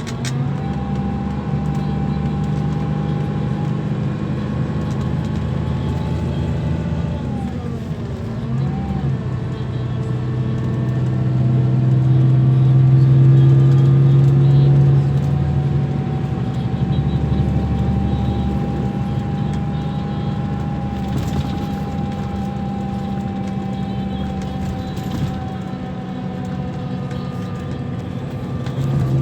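Scania K340 bus's diesel engine running under way, a steady drone whose pitch dips about eight seconds in and then climbs again, loudest around the middle.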